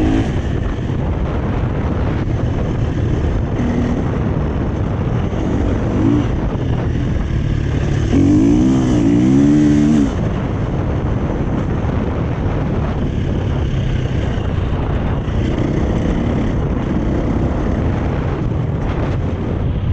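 2017 Husqvarna FE 350's single-cylinder four-stroke engine through an FMF 4.1 exhaust, running under way with the revs rising and falling. It is loudest and revs hardest about eight to ten seconds in.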